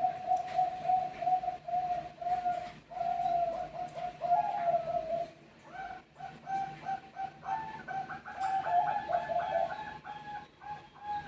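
Zebra doves (perkutut bangkok) cooing, several birds answering one another in fast runs of short notes. After a brief pause a little past five seconds, the calls come back overlapping, with a higher-pitched series of notes on top.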